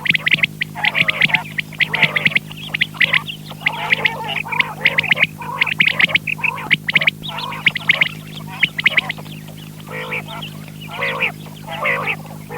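Quail calling over and over in quick, overlapping short notes, over a steady electrical hum.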